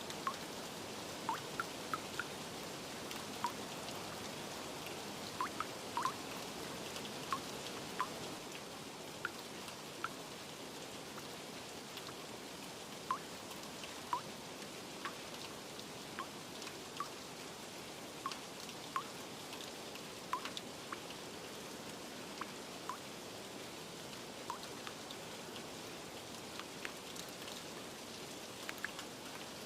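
Steady rain with scattered water drops plinking at irregular intervals.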